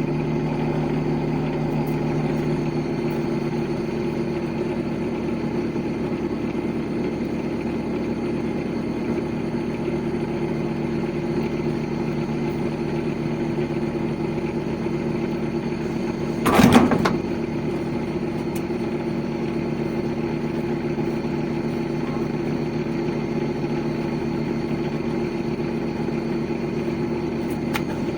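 Steady machinery drone with an even hum, broken about sixteen seconds in by a brief loud rushing burst.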